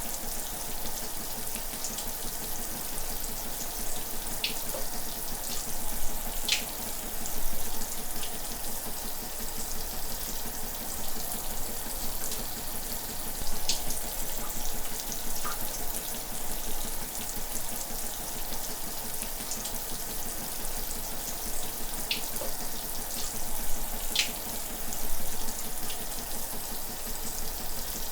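Shower water running steadily, a continuous hiss of spray with occasional brief louder splashes as drops strike.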